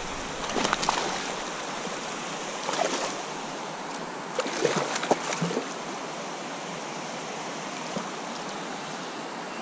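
River water rushing steadily, with a few brief splashes or knocks about a second, three seconds and five seconds in.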